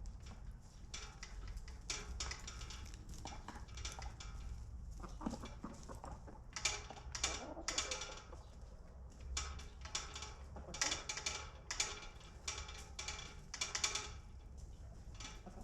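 Chickens clucking, with many short taps and clicks that come thickest in the second half.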